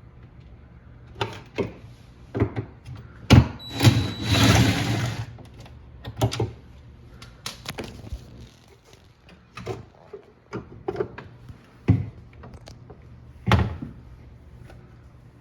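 Knocks, clicks and clatter of hard plastic refrigerator parts being handled and taken apart, with a longer scraping rattle about four seconds in.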